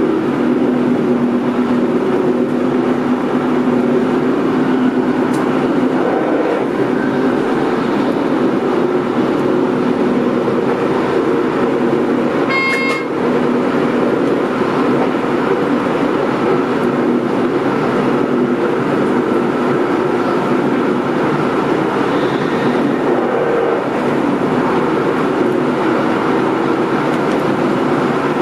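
Steady running noise inside the driver's cab of an NS Mat '64 electric multiple unit on the move, a rumble with hiss from wheels and track. About halfway through, a short high-pitched beep sounds once.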